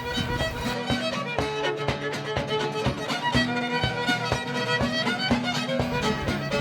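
Lively fiddle tune over a steady, rhythmic plucked-string accompaniment.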